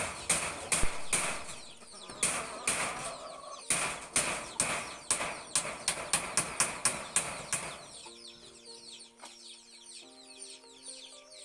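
A quick run of sharp knocks, several a second, that stops about eight seconds in. Background music with held notes follows.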